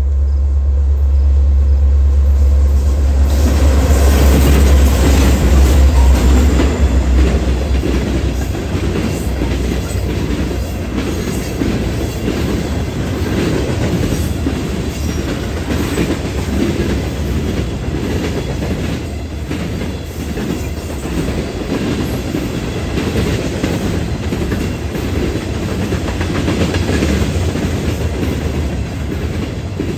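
A train passing close by: a deep steady rumble at first, then from about three seconds in the loud, continuous clatter of wheels rolling over the rails as the cars go past.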